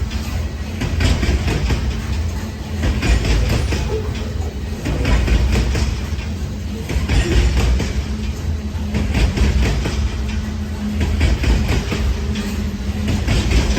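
Freight train cars rolling past close by: a steady, loud rumble of steel wheels on rail, with repeated clicks and clacks as the wheels cross rail joints.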